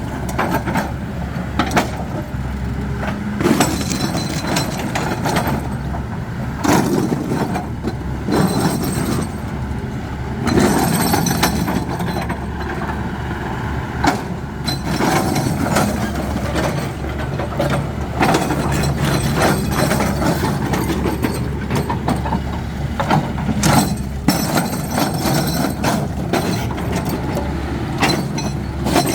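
Heavy construction machine running steadily under load, with irregular cracks and knocks of rock being split and broken.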